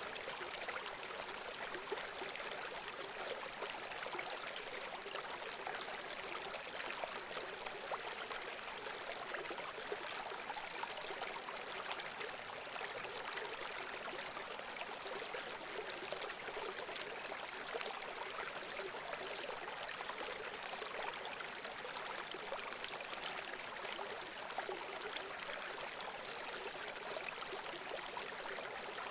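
Running water, a steady babble of small splashes and trickles with no pause or change.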